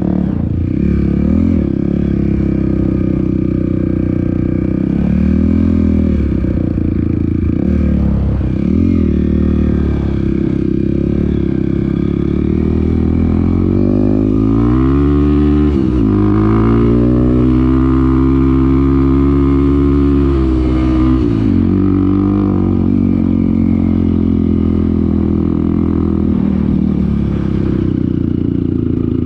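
Off-road motorcycle engine running under way, its revs rising and falling with the throttle. About halfway through it makes a long climb in revs, holds there for several seconds, then drops off suddenly.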